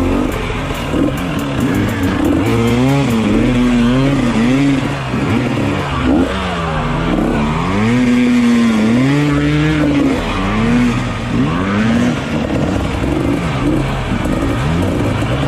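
Dirt bike engines revving up and down over and over. Their pitch rises and falls every second or so, and more than one engine seems to overlap at times.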